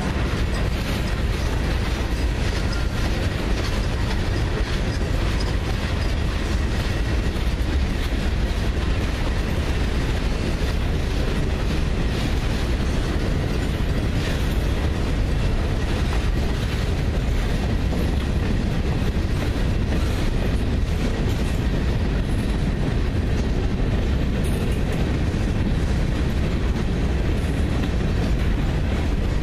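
Freight train cars, tank cars and boxcars, rolling past with a steady rumble, the wheels clicking over the rail joints.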